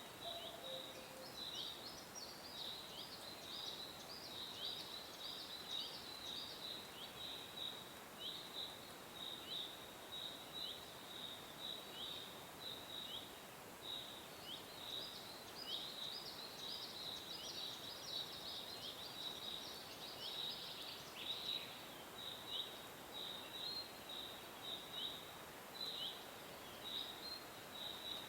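Small birds chirping: short, high chirps, many dipping in pitch, repeating a few times a second and overlapping, over a steady faint hiss.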